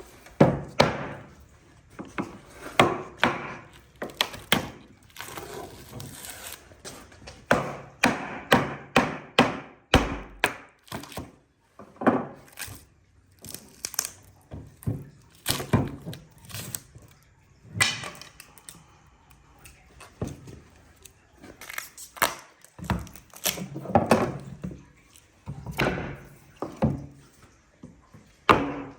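Irregular series of sharp knocks on wood, about one or two a second, as in woodworking hand work such as hammering or mallet strikes.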